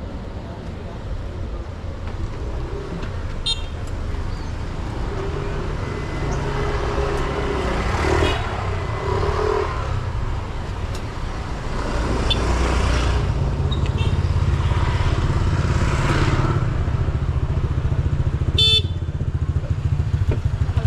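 Motor traffic running close by, mostly motorbike engines, growing louder about halfway through, with a short horn toot near the end.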